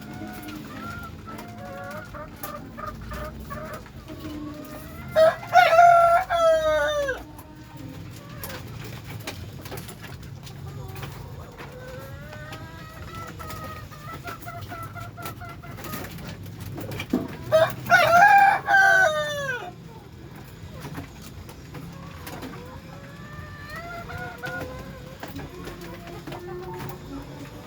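A rooster crowing twice, about twelve seconds apart, each crow lasting about two seconds, with softer bird calls going on in between.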